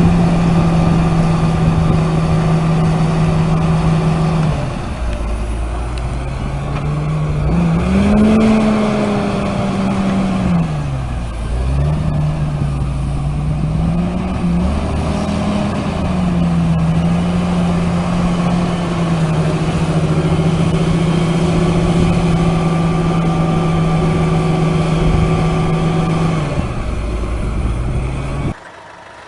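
A vehicle engine running, revved up and down several times in the middle, then settling back to a steady run. It cuts off abruptly near the end.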